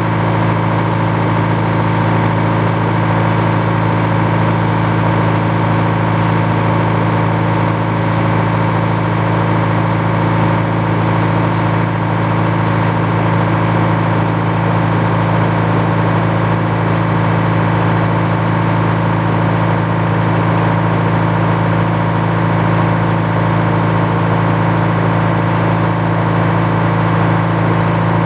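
The engine powering an old Frick sawmill, running steadily at an even speed with no change in load.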